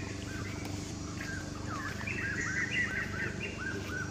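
Birds chirping: short arched notes, scattered at first, then a rapid run of them about halfway through, over a steady low hum.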